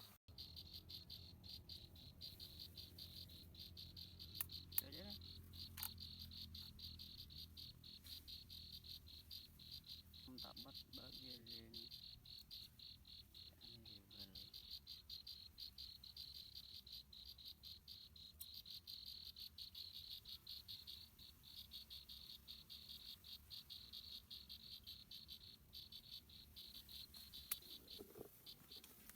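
Faint insect chorus trilling: a steady, rapid pulsing at one high pitch, with a few soft clicks.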